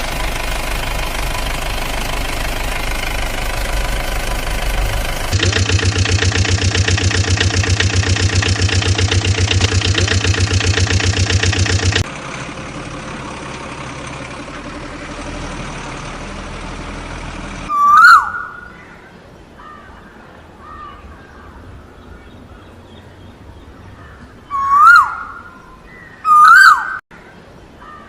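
A vehicle engine running with a steady rhythmic chug, louder after about five seconds and cutting off suddenly about twelve seconds in, then a quieter steady running sound. Later come three loud calls, each a short rising-then-falling cry.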